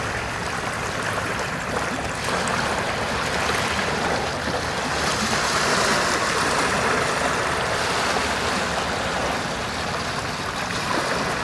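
Sea water rushing in a steady wash of waves, swelling and easing a little.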